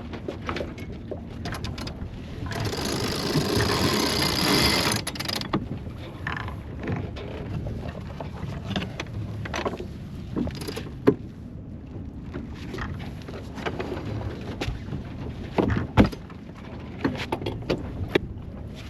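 Sailboat deck sounds as the headsail is unfurled: a loud rush of noise for about three seconds near the start, then scattered knocks and clicks of lines, blocks and winch, with sharp knocks about 11 and 16 seconds in.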